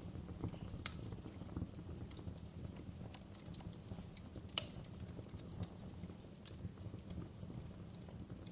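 Wood fire crackling: a steady low rumble of flames with scattered sharp pops and snaps, two louder pops about a second in and about halfway through.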